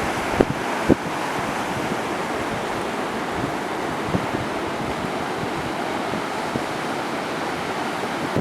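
Steady rush of ocean surf with wind buffeting the microphone, and two short knocks within the first second.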